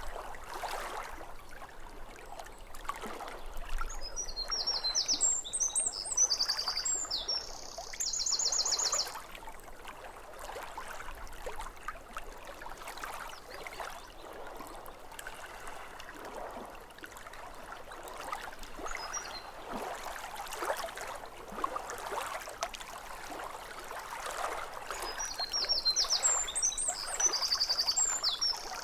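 Small waves lapping at a lake's edge in an uneven wash, with a songbird singing the same short high phrase twice, each time ending in a rapid trill.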